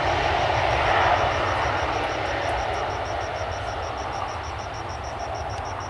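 An airliner's engines going by, their roar slowly fading away. A faint, rapid high ticking, about five or six a second, runs underneath.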